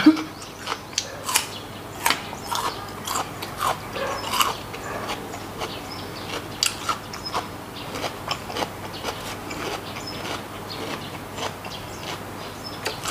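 Close-up eating sounds of a person chewing soy-marinated raw salmon: wet chewing with lip smacks and sharp mouth clicks, irregular, a couple a second.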